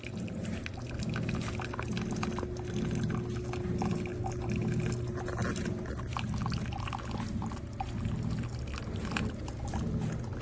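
Keurig K-Slim single-serve coffee maker brewing: liquid pouring into a cup over a steady low hum that pulses about twice a second.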